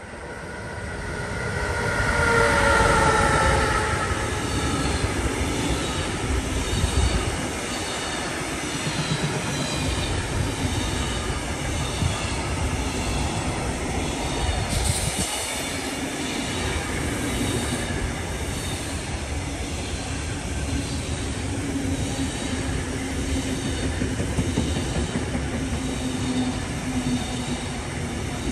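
Train passing close by on a main line. Its whine falls in pitch as the front goes by, about two to three seconds in, and then the wheels on the rails keep up a steady rumble with a rhythmic clicking as the cars roll past.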